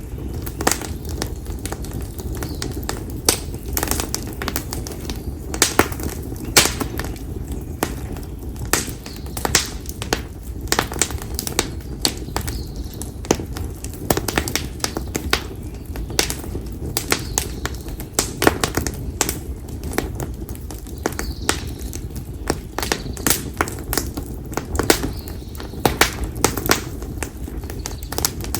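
Konara oak firewood burning in an open campfire, crackling with frequent sharp pops, several a second, over a steady low rumble.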